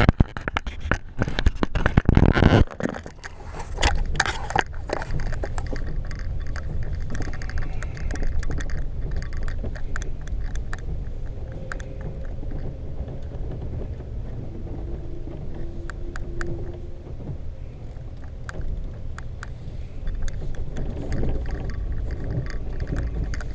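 Isuzu truck driving, a steady low rumble of engine and road noise heard inside the cab, with faint rattles. Loud knocks and crackles sound over it in the first couple of seconds.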